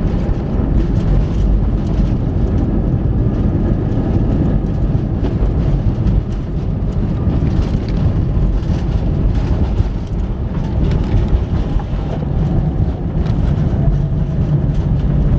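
Airbus A320 cabin noise during landing: a loud, steady low rumble of engines and airframe, with frequent small knocks and rattles.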